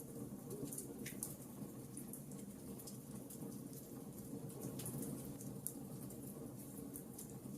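Campfire of burning logs: a steady low rush of flames with irregular sharp crackles and pops of the wood.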